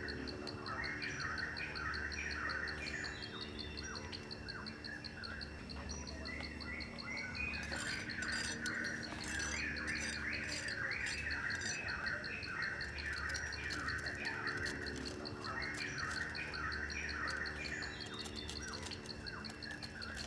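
Birds chirping in quick repeated phrases, in two long runs, over a steady, evenly pulsing insect trill. A cluster of faint clicks comes about eight seconds in.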